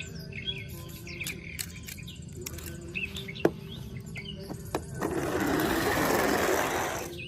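Small birds chirping, with a few sharp clicks, then about five seconds in a loud rushing hiss lasting about two seconds that cuts off suddenly.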